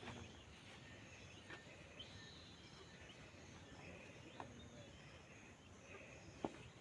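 Near silence: faint rural outdoor ambience with a few faint high chirps, and one sharp click about six and a half seconds in.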